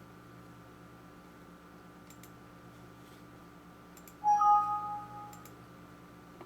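A short two-note electronic chime from a computer, lasting about a second, about four seconds in. It sits over a faint steady electrical hum, with a few faint clicks like a mouse.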